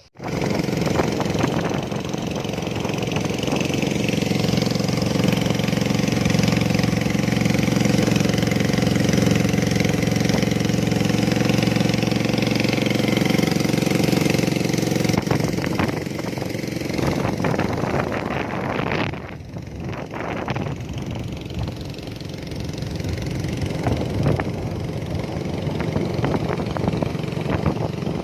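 Boat engine running steadily, its level dropping somewhat a little past halfway through.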